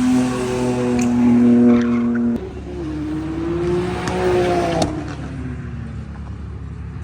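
Car engine held at high revs with some tyre squeal. About two and a half seconds in the revs drop suddenly, and the engine note wavers up and down before fading away.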